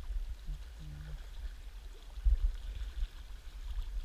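Steady rush of flowing river water, under a heavy low rumble with a louder low thump a little past halfway and another at the end.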